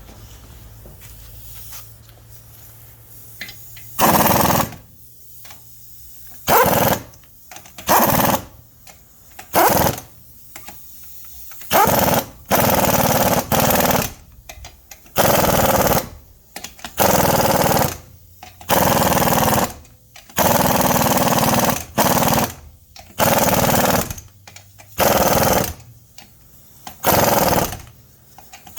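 Impact wrench hammering on lug nuts in repeated short bursts, about fourteen trigger pulls of a second or so each, starting about four seconds in.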